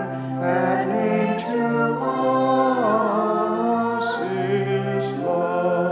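A group of voices singing a hymn in slow, held chords, reaching its final line.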